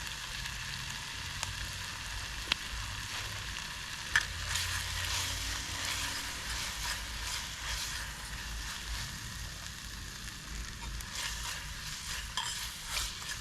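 Food frying over a campfire: steady sizzling hiss with scattered crackles and a couple of sharp pops, the loudest about four seconds in.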